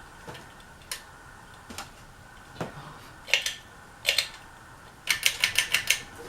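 Ceiling fan running, with irregular sharp ticks and clicks, some in pairs, then a quick run of about seven clicks near the end, over a faint steady hum.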